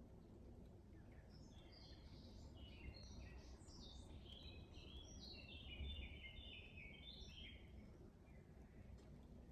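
A songbird singing faintly: a long, rapid run of short, varied notes that starts about a second in and stops shortly before the end, over a low background rumble.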